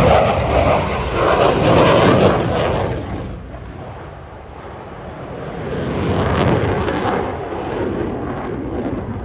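A JF-17 Thunder fighter jet's single turbofan engine roaring loudly through a display pass. It fades after about three seconds and swells again around six seconds in.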